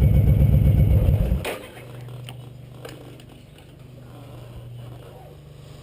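Motorcycle engine running with an even low pulse, then shutting off abruptly about a second and a half in. A faint steady low hum and a few light clicks follow.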